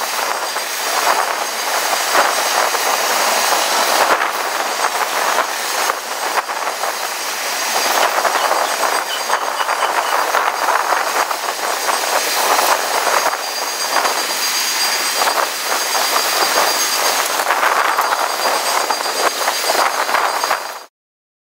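Freight train of tank cars rolling past: steady wheel-on-rail noise with scattered clicks from the wheels, cutting off suddenly just before the end.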